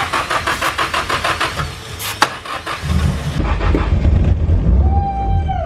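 SR20 engine turned over by its starter with an even cranking rhythm, about four to five strokes a second, without catching: no fuel is getting through, and the fuel pump is the suspect. In the last couple of seconds it turns to a heavier low rumble with a short whine near the end.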